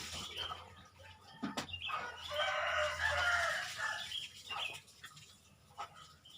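Birds calling in the morning: scattered short chirps and clicks, and one loud drawn-out call of about a second and a half near the middle.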